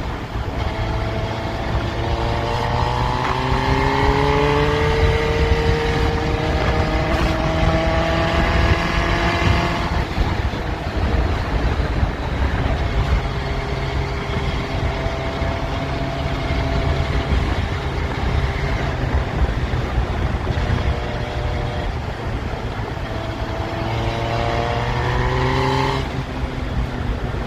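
Yamaha FZS1000 Fazer's inline-four engine under way, its note rising in pitch as it accelerates for several seconds, then easing off abruptly about ten seconds in. It holds a steadier drone before pulling up in pitch again and dropping off sharply near the end, with a steady rush of wind underneath.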